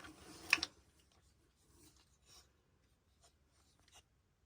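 Quiet handling of thin wooden craft cutouts: a short scrape and a sharp click as a piece is set down in the first second, then only a few faint taps.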